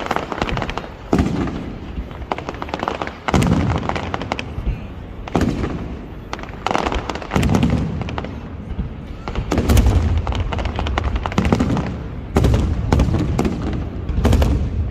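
Aerial fireworks display: a rapid series of shell bursts, sharp bangs each followed by a deep rumbling boom. The bursts come thicker and heavier from about ten seconds in.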